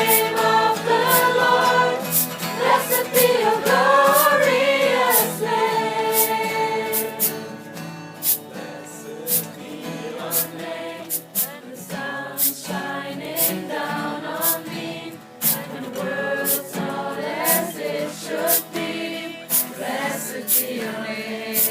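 A group of voices singing a song together, with a steady beat of sharp strokes about twice a second. It is louder for the first seven seconds or so, then softer.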